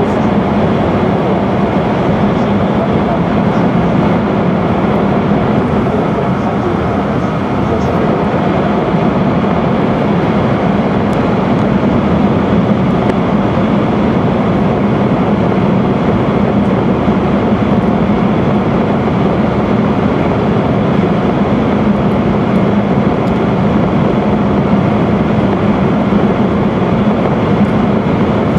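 Steady running noise of an E5 series Shinkansen train at speed, heard inside the passenger cabin: an even rumble with a low hum and no distinct clicks or changes.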